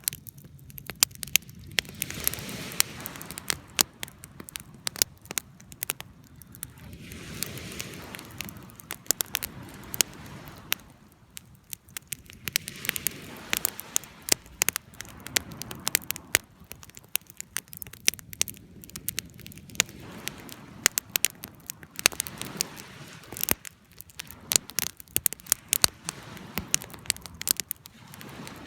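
Wood campfire burning and crackling, with frequent sharp pops and a soft hiss that swells and fades every few seconds.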